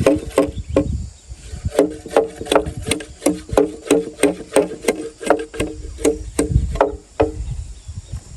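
Bamboo struck over and over, about three hollow, ringing knocks a second, with a short pause about a second in.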